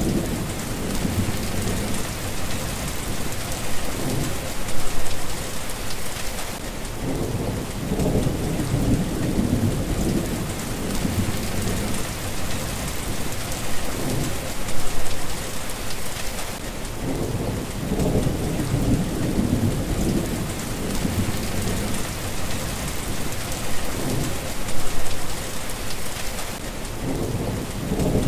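Steady rain falling, with low thunder rumbling underneath. The sound swells briefly three times, about ten seconds apart.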